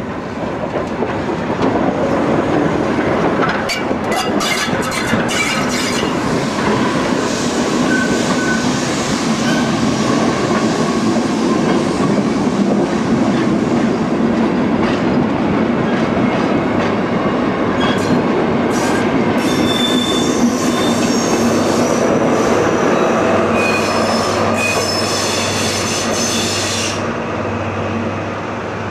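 Steam locomotive of German class 50.35 hauling passenger coaches slowly over curved track and points: a steady rumble of the train with the wheels squealing on the curves. The squeals and clicks come in two bunches, about four seconds in and again from about eighteen to twenty-seven seconds.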